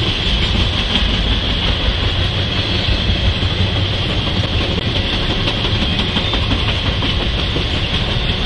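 Intermodal freight train of semi-trailers on flatcars rolling steadily past, a continuous rumble of wheels on rail with a steady hiss above it.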